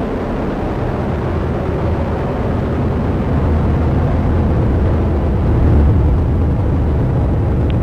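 Vulcan Centaur rocket in ascent, its two BE-4 engines and two solid rocket boosters firing: a loud, steady, deep rumble that swells slightly about halfway through.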